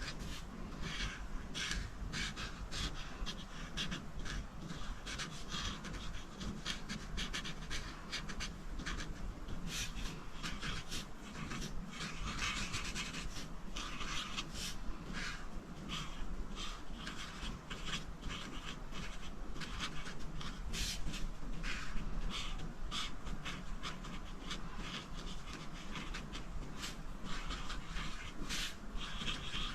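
Coloring strokes on paper: a drawing tool rubbed quickly back and forth across a coloring page, several strokes a second.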